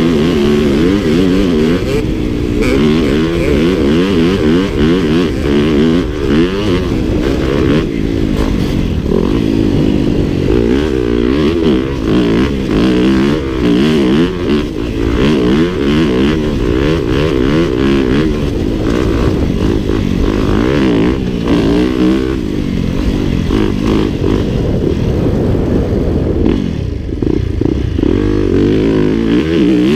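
Dirt bike engines revving hard, their pitch climbing and dropping again and again as the riders accelerate and shift through the gears, with more than one engine note overlapping.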